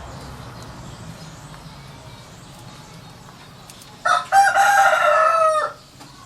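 A rooster crowing once about four seconds in: a short first note, then one long loud held note that drops in pitch at the end, over faint steady background noise.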